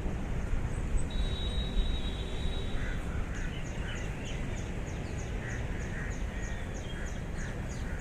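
A bird calling in a fast run of short, high, falling chirps, about three or four a second, starting a few seconds in, over a steady low background rumble.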